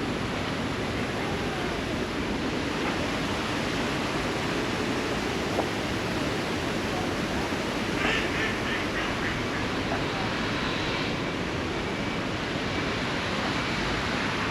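Steady rush of water, with ducks quacking in a quick run about eight seconds in.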